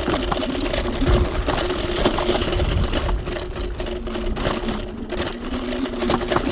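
TRBK-M2 electric hyperscooter ridden over a rough dirt trail: a steady motor whine, with frequent rattles and knocks from the bumpy ground over a constant low rumble.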